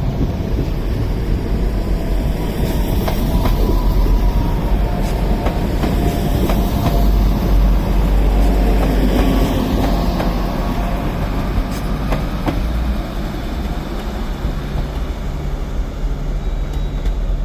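A train running through the station close by on the rails: a steady heavy rumble of wheels and running gear, easing off slightly a few seconds before the end.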